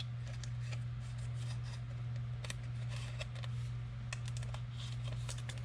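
Football trading cards being slid into plastic card sleeves: faint, scattered rustles and small clicks of card and plastic being handled, over a steady low hum.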